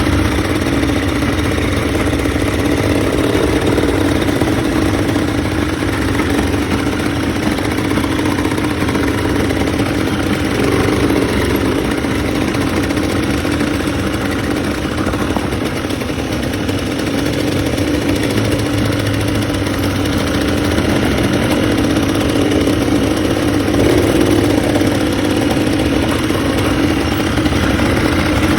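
ATV (quad bike) engine running steadily while being ridden, with no sharp revs.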